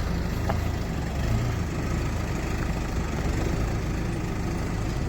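Tractor engine running steadily, a low, even drone while the tractor is manoeuvred in reverse.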